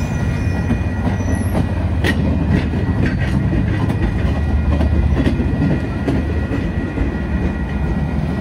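Train rolling past with a steady low rumble and scattered sharp clicks from the wheels on the rails.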